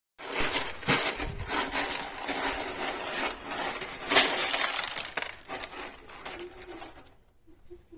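Kitten scratching and digging in a litter box, the loose litter grains rattling and crunching in quick, irregular strokes, then dying away near the end.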